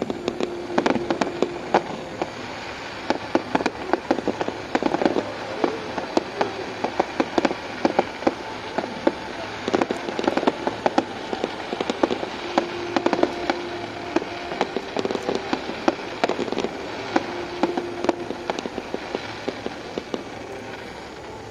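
Fireworks display going off in a dense, continuous run of sharp cracks and pops, many per second.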